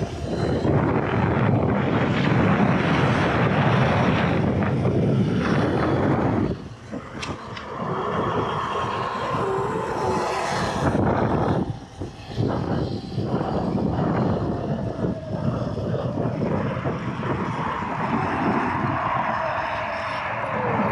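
Wind rushing over the microphone while riding a Surron electric dirt bike, with the electric motor's thin whine slowly falling in pitch in the second half. The wind noise drops out briefly about 7 and 12 seconds in.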